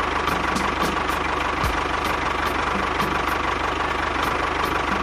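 An engine idling steadily with a regular knock, about three beats a second.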